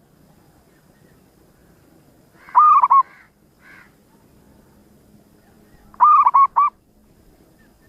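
Zebra dove (perkutut) cooing: two short phrases of quick, staccato coos, about three and a half seconds apart.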